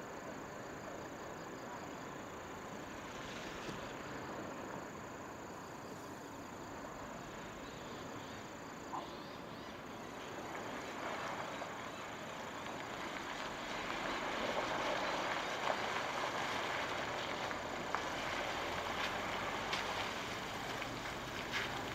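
Road vehicle, plausibly the express coach, approaching: a steady rushing noise with a low engine hum that grows louder from about halfway through and stays loud to the end, with a few short clicks.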